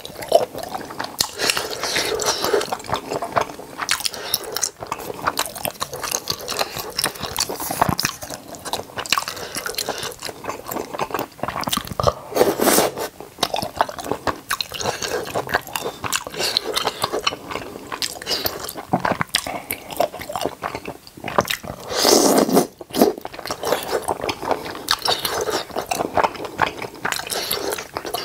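Close-miked eating sounds: continuous wet chewing and biting with some crunchy bites, with louder, fuller wet bursts about twelve seconds in and again about twenty-two seconds in.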